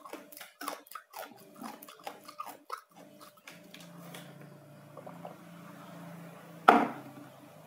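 Close-up crunchy chewing of crisp-skinned roast pork, a rapid run of crackles for the first few seconds. It then gives way to a faint low hum, with one short loud breathy burst near the end.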